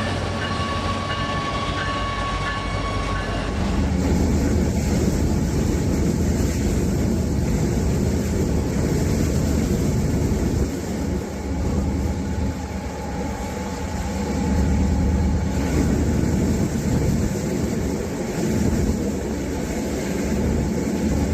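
A train horn holds a steady chord for the first few seconds, then cuts to the heavy rumble of a train running on the rails, rising and falling in loudness.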